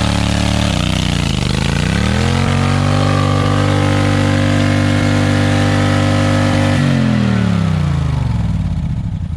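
Modified lawn tractor's engine under hard throttle. Its revs dip briefly about a second in, climb back and hold steady for several seconds, then wind down near the end.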